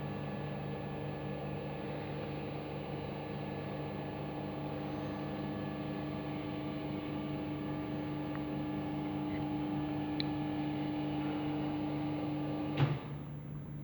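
Pietroberto BlueMix 80 planetary dough mixer running with a steady electric motor and gear hum. Near the end a sharp click and part of the hum cuts off, leaving a lower hum.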